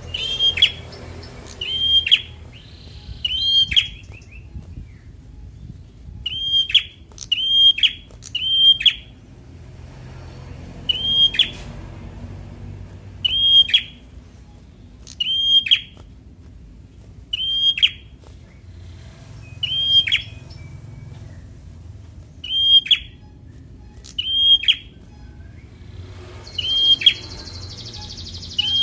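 Prinia (prenjak) calling one short, sharp chirp over and over, about one every one to two seconds, now and then two or three in quick succession.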